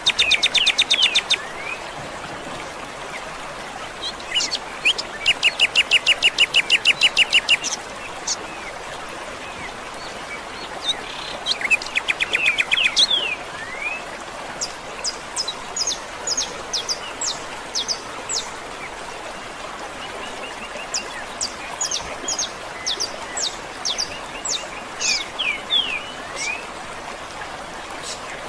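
Songbirds singing: rapid trills of quickly repeated notes near the start, at about five to seven seconds in and again around twelve seconds, then scattered short high chirps and sweeping notes, over a steady background rush of running water.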